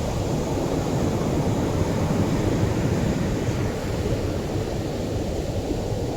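Atlantic surf washing onto a sandy shore: a continuous low rumble of breaking waves that eases slightly about four seconds in.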